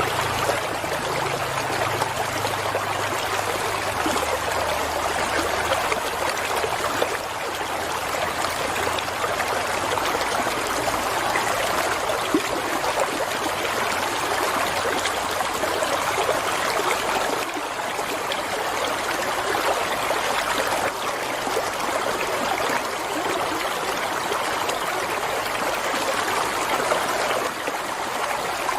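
Flowing water, a steady even rush and trickle with no breaks.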